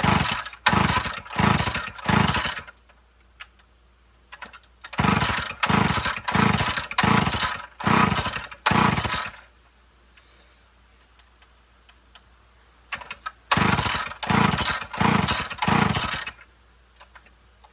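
Homelite Big Red XL two-stroke chainsaw being pull-started: three runs of quick recoil-starter pulls, about two a second, each pull cranking the engine briefly, with pauses between the runs. The engine never catches; the owner takes it for a flooded spark plug.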